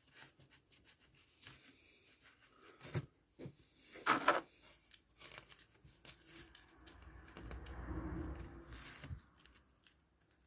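Scattered small knocks and clicks of parts and tools being handled at a workbench, with a sharper knock about four seconds in and a longer stretch of rustling and scraping from about seven to nine seconds in.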